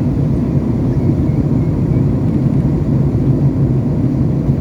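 Airliner cabin noise on the approach to landing: the steady low rumble of jet engines and airflow heard from inside the passenger cabin.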